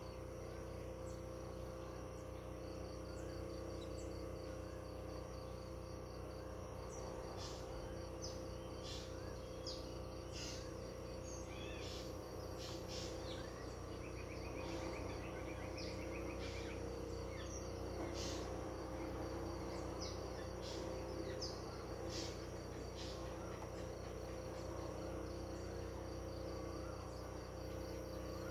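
Countryside ambience: insects trill steadily and high, with short bird chirps scattered throughout and a brief rapid trill about halfway through.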